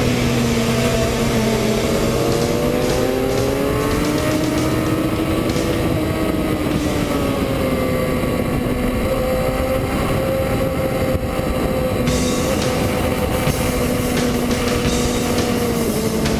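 Motorcycle engine at speed on a race track, its pitch rising and falling slowly as the revs change through the corners.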